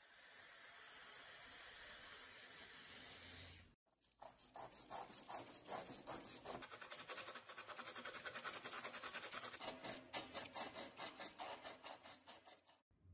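A steady hiss for about four seconds, then, after a brief cut, quick back-and-forth rubbing strokes, about four a second. The strokes are hand sanding or filing on the antique meat grinder's metal.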